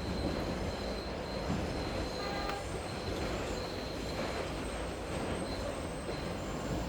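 A train running on rails, its wheels squealing in a thin high tone that comes and goes, over a steady low rumble and rain-like hiss of city ambience.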